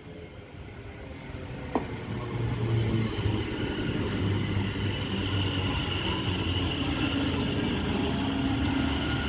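Class 730 electric multiple unit running in, a low rumble with a steady whine that grows louder from about two seconds in and then holds. There is one sharp click shortly before the rise.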